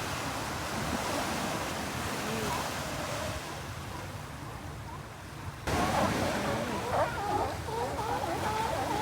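Ocean surf washing steadily. About five and a half seconds in it cuts off abruptly and a crowd of birds takes over, many short, bending calls overlapping one another.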